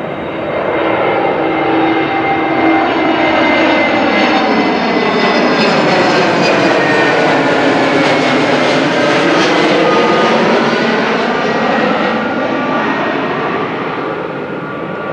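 Jet airliner passing low overhead: its engines swell about a second in, hold loud for several seconds with a sweeping whoosh, then begin to fade near the end.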